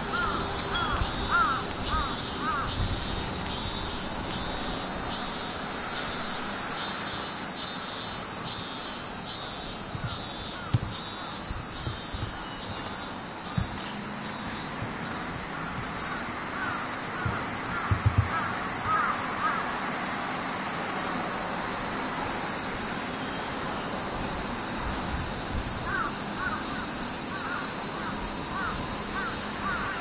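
Outdoor field ambience: a steady high-pitched drone runs throughout, and a bird calls in quick repeated series at the start, around the middle and near the end. A few soft knocks come around the middle.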